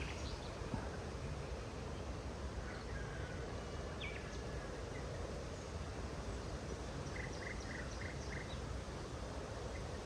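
Steady outdoor ambience with a low rumble, with scattered short bird chirps and a quick run of about five chirps a little past halfway.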